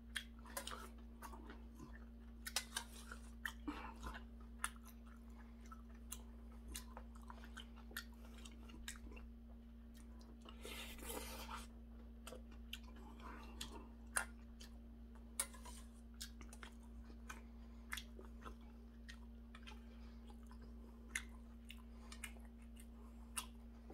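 Faint close-up chewing of a mouthful of seonji gukbap (ox-blood soup with rice), with scattered small mouth clicks and smacks and one brief slurp from a metal spoon about eleven seconds in. A steady low hum runs underneath.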